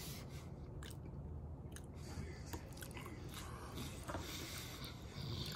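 A person chewing a mouthful of baked potato, soft and wet, with a few faint clicks.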